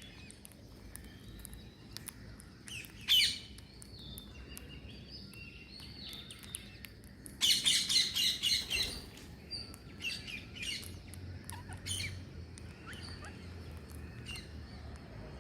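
Green parrots calling: scattered high chirps and squawks, with one loud call about three seconds in and a loud rapid run of repeated calls, about six a second, a little past halfway.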